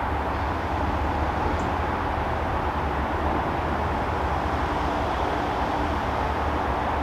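Steady outdoor background noise: a constant low rumble with a hiss over it, unchanging throughout.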